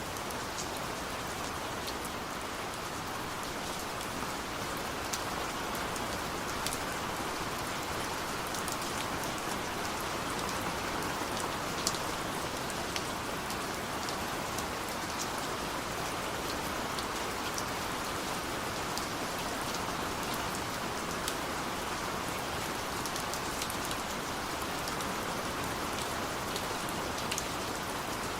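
Steady rain falling, with scattered individual drops ticking sharply on a surface, one a little louder about twelve seconds in.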